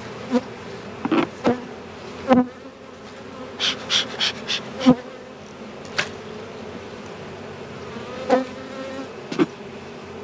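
Honey bees buzzing around the hive in a steady hum, with a dozen or so short sharp clicks and knocks scattered through, the loudest about two and a half and five seconds in.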